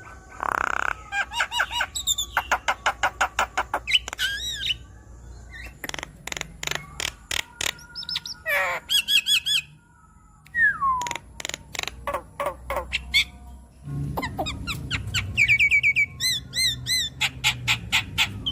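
Javan myna singing a long, varied song: fast trains of clicks, whistled notes and harsh squawks, with a falling whistle about ten seconds in.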